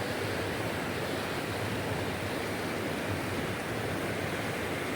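Steady rushing of a small mountain-stream cascade, water pouring over a log.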